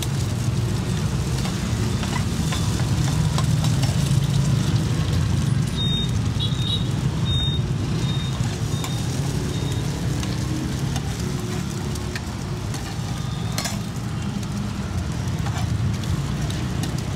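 Rice-flour cake cubes and eggs sizzling in oil on a large flat frying pan, with a metal spatula scraping and tapping on the pan. A steady low rumble of street traffic runs underneath.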